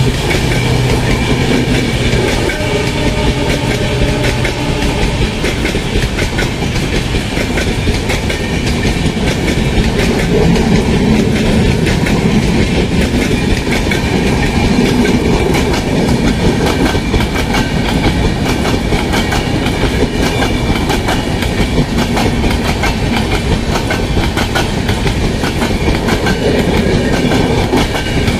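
Coaches of an express train running through at speed, their wheels clattering steadily over the rail joints in a fast clickety-clack. A low hum from the WDP4D diesel locomotive that has just passed fades out in the first few seconds.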